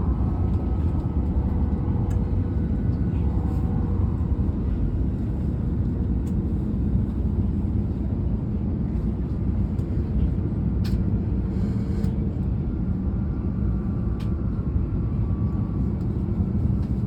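Steady low rumble of a Tohoku Shinkansen train running, heard inside the passenger cabin, with a faint whine and a few light clicks.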